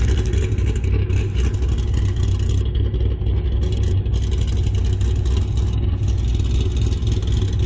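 Modified C6 Corvette's LS3 V8 running steadily with a deep, heavy rumble.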